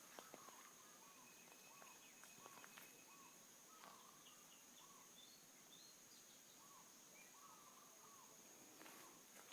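Quiet jungle ambience: a bird repeating short chirps over and over, with a few higher chirps in the middle, over a steady thin high-pitched tone and a few soft clicks.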